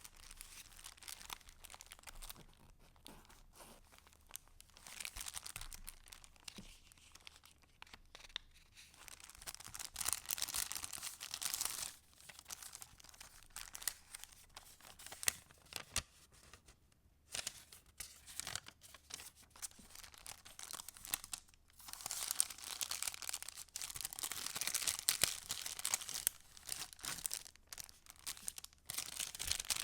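Paper rustling and crinkling as the pages and paper scraps of a handmade junk journal are turned and handled, in uneven stretches with small crisp clicks. The louder handling comes about ten seconds in and again through the last third.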